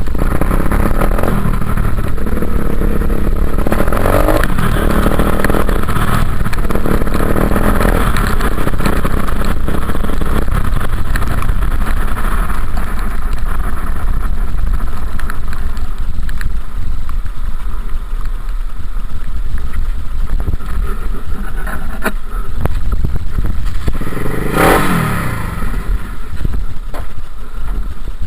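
Dirt bike engine running under a steady low rumble, its revs rising and falling a few seconds in and again in one short burst near the end.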